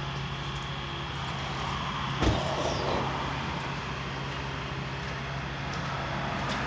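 A steady low mechanical hum, with a single sharp knock about two seconds in followed by a short rush of noise.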